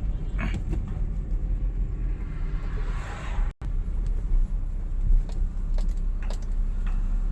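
Petrol Hyundai Accent engine running with a steady low rumble, from a car with a misfire and loss of pickup. The sound cuts out for a moment about three and a half seconds in.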